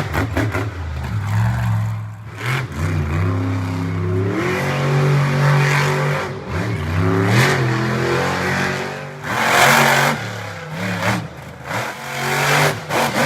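Monster truck engine revving hard, its pitch rising and falling repeatedly, with several short loud bursts of noise along the way.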